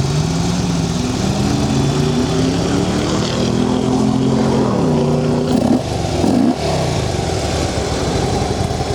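Harley-Davidson CVO Road Glide Ultra's Screamin' Eagle Twin Cam 110 V-twin running and being revved: its pitch climbs in steps for about five seconds, then drops back, with another brief dip a little later.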